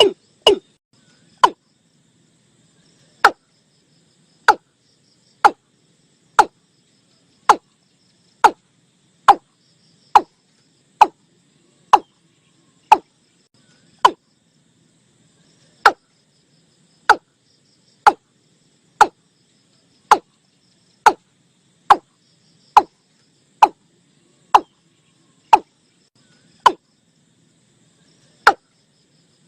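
Watercock calling: a long series of short, hollow notes that each drop quickly in pitch, about one a second, with a few longer pauses between runs. Faint insects buzz underneath.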